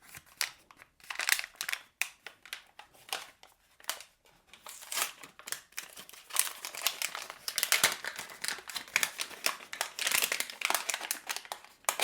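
Packaging being handled and unwrapped, a dense irregular crinkling and rustling that grows busier about halfway through.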